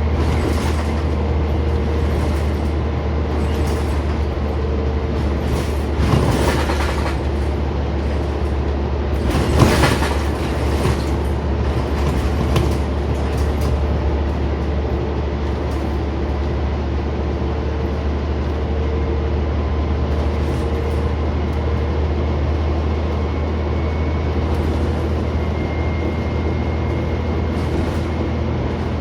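Scania CN94UB Omnicity single-deck bus heard from inside while under way: a steady low drone of engine, drivetrain and road noise, with a few short body rattles and knocks, most noticeable about six and nine seconds in.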